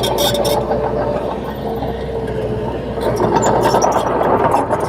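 Crawler bulldozer's diesel engine running steadily, with scattered metallic clicks and clanks that come thicker in the second half.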